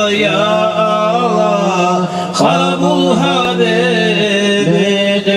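Male voices chanting a devotional mawlid dhikr: a steady low held note sounds under a wavering, melismatic melody line that bends up and down.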